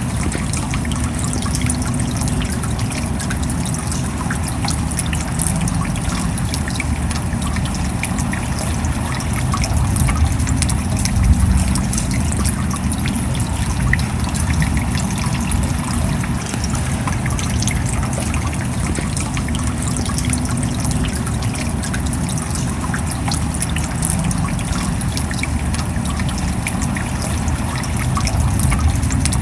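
Steady rain falling, a dense patter of small drop hits over a low, even wash of water.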